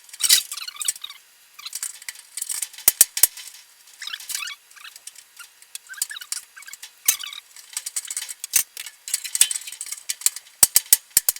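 Small parts being fitted into a dryer by hand: high-pitched squeaky scraping, broken by scattered sharp clicks, with a quick run of clicks near the end.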